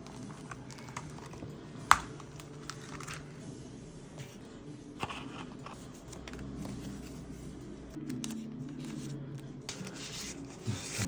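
Paper and stationery being handled while decorating a journal: rustling and crinkling with small clicks and taps, and one sharp click about two seconds in.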